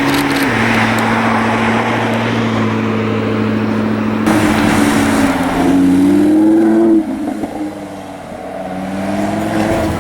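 Car engine running steadily, then accelerating. Its pitch climbs, drops sharply about seven seconds in, and climbs again.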